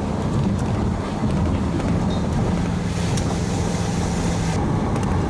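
Steady engine hum and road noise heard from inside a moving vehicle, with a stretch of added hiss in the middle.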